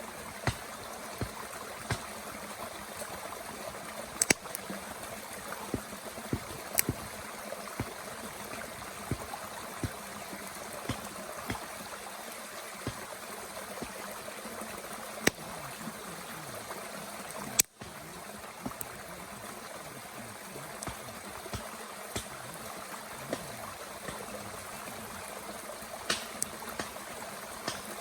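Wood crackling and popping in a Bushbox twig stove: irregular sharp snaps, a few much louder, over the steady rush of a mountain stream.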